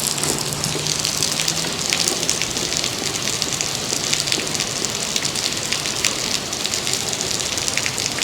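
Heavy rain falling steadily, with many sharp drop ticks close by.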